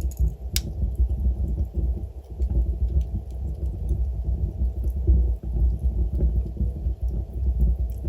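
Wood fire burning in a fireplace: a steady low rumble of flames with sparse, faint crackles from the burning logs and one sharp pop about half a second in.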